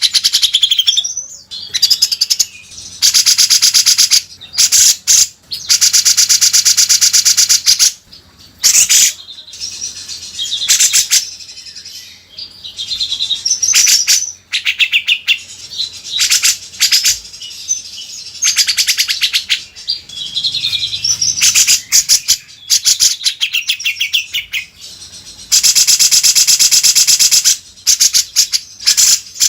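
Cucak jenggot (grey-cheeked bulbul) singing: long, very rapid high trills of one to two seconds, alternating with short chirpy warbled phrases. It is a masteran recording used to train captive songbirds.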